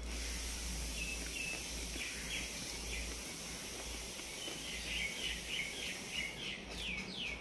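A small bird chirping repeatedly over a steady hiss and low hum, with a few quick falling chirps near the end.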